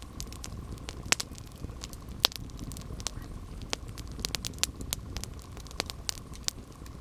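Campfire burning: wood crackling with irregular sharp pops over a steady low rumble of the flames, the loudest pops a little after one second and a little after two seconds in.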